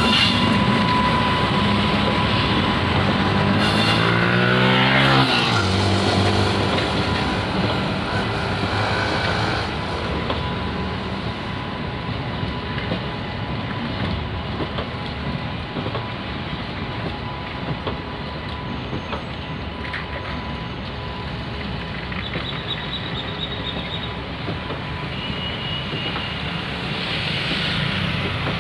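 Freight train of automobile-carrier wagons rolling past at close range, a steady rumble and rattle of wheels on rail that grows quieter after about ten seconds as the rake draws away. A droning tone falls in pitch about four seconds in.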